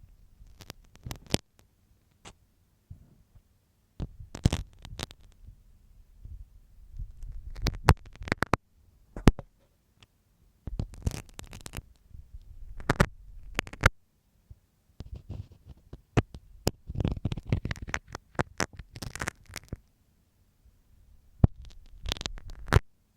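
A dressmaker's pin scraping and tapping close against an ASMR ear microphone, ear-cleaning style. It comes in irregular bursts of scratchy strokes and sharp clicks, with a low rumble under them and short pauses between bursts.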